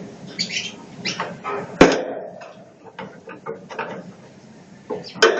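Budgerigars chirping in short, separate calls, with a sharp click or knock a little under two seconds in and another near the end.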